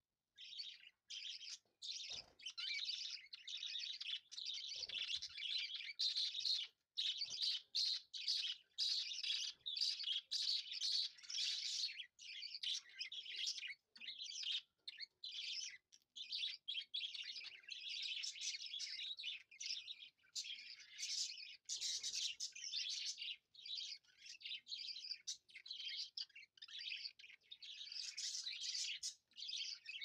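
Small birds chirping and twittering continuously, broken up by many brief dropouts to silence.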